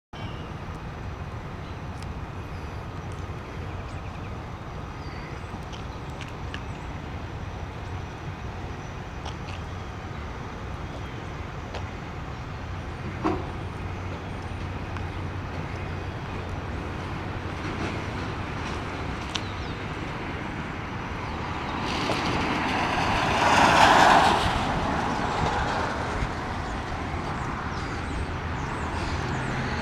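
Parked work truck's engine idling with a steady low hum. There is a single sharp click about 13 seconds in, and a louder swell of passing traffic rises and fades between about 22 and 26 seconds.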